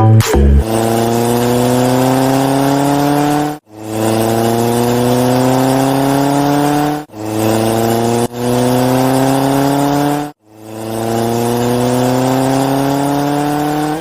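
Race car engine revving, used as a sound effect: a rising, accelerating engine note heard about four times in a row. Each run lasts around three seconds and is cut off abruptly before the next begins.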